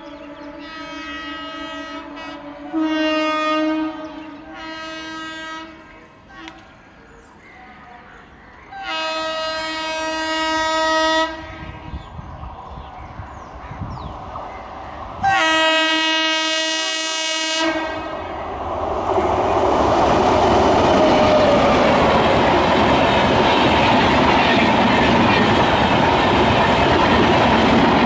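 An Indian Railways electric locomotive sounds its horn in a series of blasts as it approaches: a faint one, two short ones, a longer one, then a loud final blast. About two-thirds of the way through, the double-decker express passes close by with a loud, steady rush of wheel and rail noise and clickety-clack.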